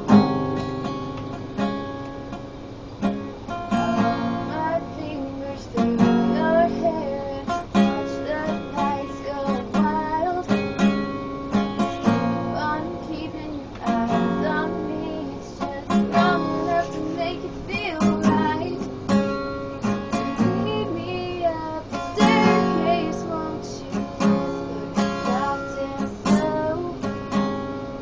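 Acoustic guitar strummed in a steady rhythm while a young girl sings along.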